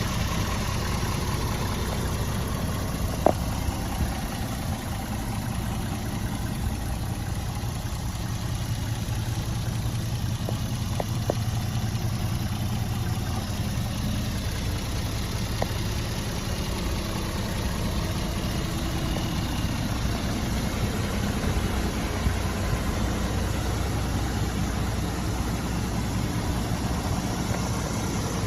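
Scania R450 truck's 13-litre straight-six diesel idling steadily, with a few faint clicks, the sharpest about three seconds in.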